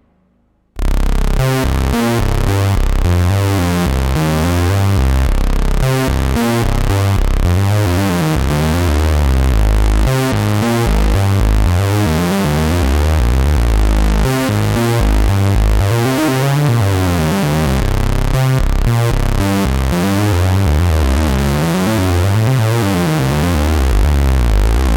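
2022 reissue Moog Minimoog analog synthesizer playing a loud, bass-heavy improvised line of rapidly changing notes with sweeping tone. It starts abruptly about a second in, after a brief silence.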